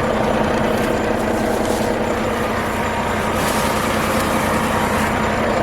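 Semi-truck's diesel engine running with a steady hum.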